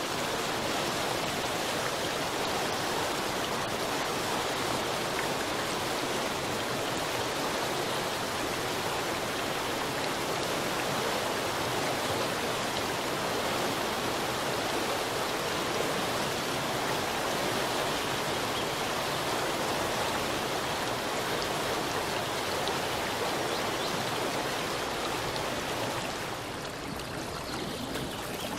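Flowing water rushing steadily, turning slightly quieter near the end.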